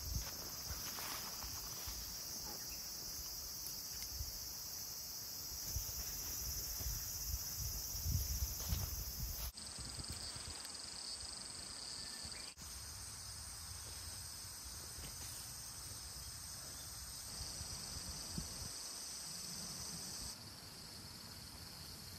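A steady, high insect chorus, with low rumbling and a few soft bumps underneath, loudest a little before the middle. The chorus shifts abruptly in tone three times.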